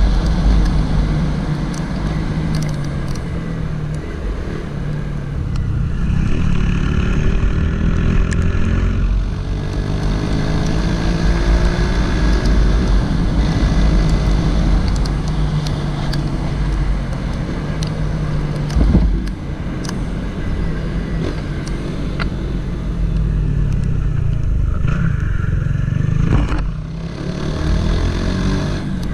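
Honda CG 160 Titan's single-cylinder four-stroke engine running under way, rising in pitch as it accelerates a few times between shifts, with wind rushing over the microphone.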